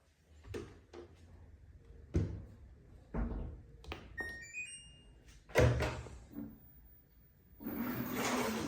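Plastic knocks and thunks of a top-loading washing machine's lid and parts being handled. About halfway there is a short electronic tune of rising beeps from its control panel. A steady hiss begins near the end.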